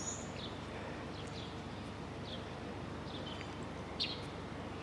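Scattered short bird chirps, each a quick falling note, over a steady low background rumble.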